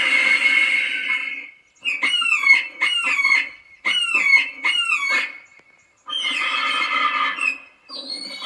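Recorded eagle calls played through a bird-scaring loudspeaker. A long harsh scream comes first, then a run of short falling shrieks, then another long scream near the end.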